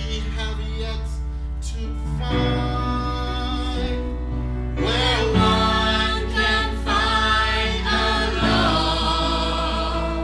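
Musical-theatre duet: singing voices over instrumental accompaniment, swelling and rising in pitch about halfway through.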